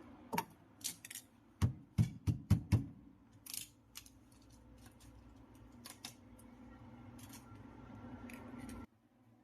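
Hands working a refrigerator door gasket with transparent tape: scattered clicks and crackles, with a quick run of five knocks about two seconds in. A faint low hum runs underneath and cuts off suddenly near the end.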